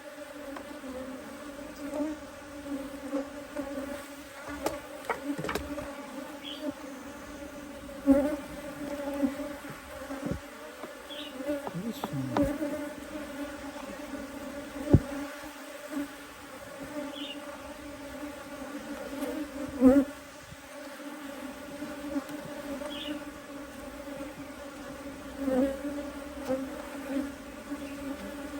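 Honeybees buzzing around an open hive: a steady, low hum, with a few sharp knocks and clicks.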